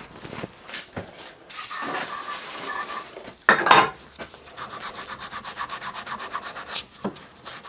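Old seal residue on a metal gauge fitting being scraped off by hand, wetted down because it is suspected to be asbestos. A steady hiss about a second and a half in, then quick, even back-and-forth scraping strokes, about five a second.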